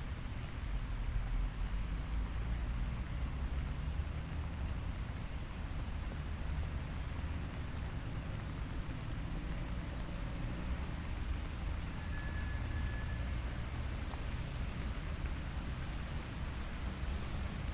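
Steady light rain falling on a city street, with the low rumble of road traffic underneath. A brief faint high tone sounds about twelve seconds in.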